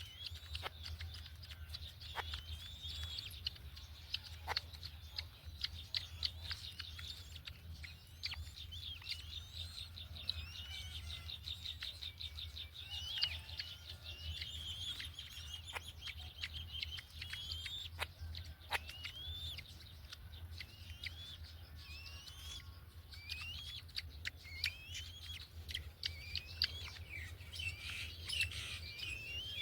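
Birds chirping: many short, high, upward-sliding chirps throughout, with a fast run of rapid notes about ten seconds in, scattered sharp clicks, and a steady low hum underneath.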